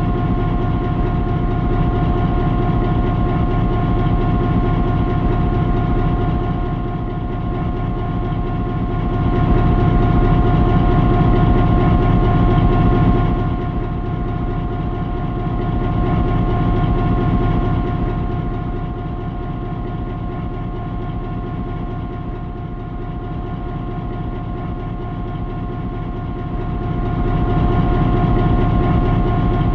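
Railway locomotive engine running at a standstill, a dense pulsing rumble with a steady whine over it, swelling louder and easing off several times.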